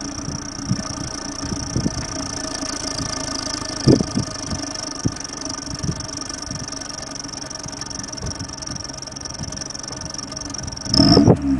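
Exhaust-mounted turbo whistler on a Toyota Corolla giving a steady high whistle over the idling engine, with a few short knocks. Near the end the engine revs briefly and falls back.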